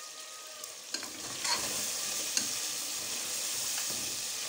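Mutton trotters sizzling in masala in a pressure cooker pot while a metal ladle stirs them. The sizzle grows louder about a second in, and the ladle clinks against the pot a few times.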